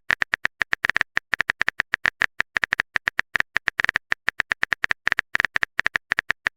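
Keyboard-typing sound effect: a rapid, uneven run of short clicks, about seven or eight a second, like text being typed into a chat.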